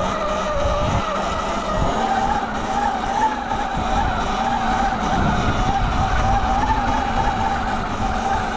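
Small motorbike engine running at fairly steady revs while being ridden, its pitch wavering up and down gently as the throttle shifts.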